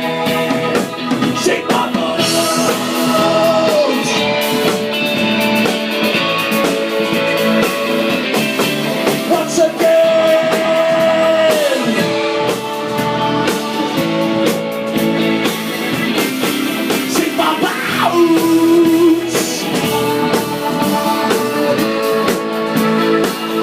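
Rock band playing live, with guitar and drum kit, and one upward pitch slide about eighteen seconds in.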